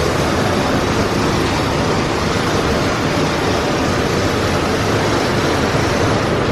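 Automatic car wash equipment running, a loud steady rushing noise with no breaks.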